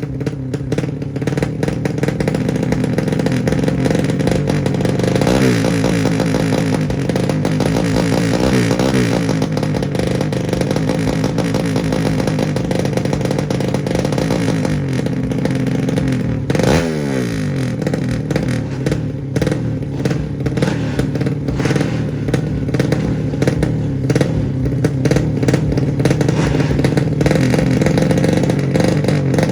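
200cc underbone drag-bike engines running and revving, with the pitch wavering up and down a few seconds in and one quick rev falling away a little past the middle.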